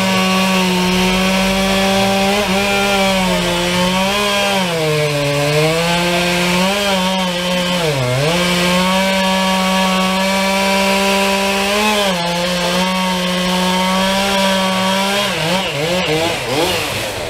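Chainsaw running at high revs, cutting into the trunk of a fallen tree, its pitch sagging briefly as the chain bogs in the wood, about four and eight seconds in. Near the end the throttle eases off and the engine note drops and wavers.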